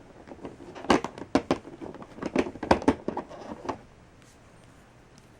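Hard plastic toy parts and packaging being handled: a run of sharp plastic clicks and rustling that stops about four seconds in.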